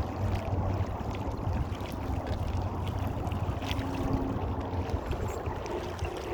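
A sailboat's engine running steadily while the boat motors upstream against the current, a low hum under water and wind noise.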